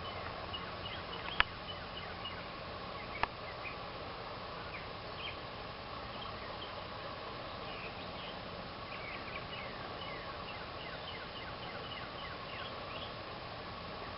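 Many short bird chirps over a steady outdoor hiss with a constant hum, broken by two sharp clicks about one and a half and three seconds in.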